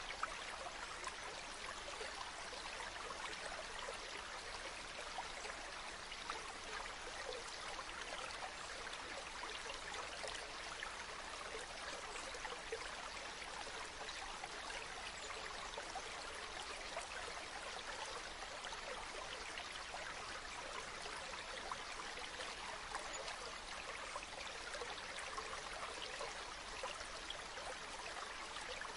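Steady babbling of a shallow river, with a few faint sharp ticks here and there.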